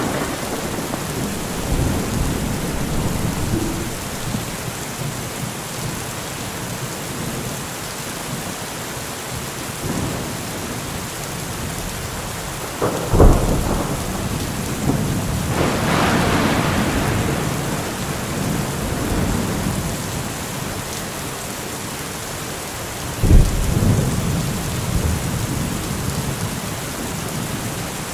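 Heavy rain falling steadily with thunder rumbling underneath. Sharp thunderclaps come about 13 seconds in and again about 23 seconds in, with a longer rolling peal in between.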